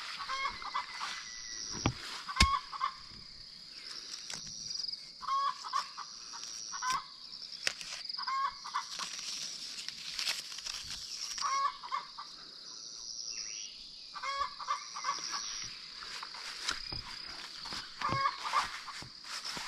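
Chickens clucking in short calls every second or two, over a steady high-pitched drone, with a couple of sharp knocks about two seconds in.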